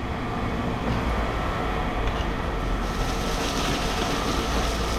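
Steady mechanical rumble of heavy machinery running, with a faint constant whine over it.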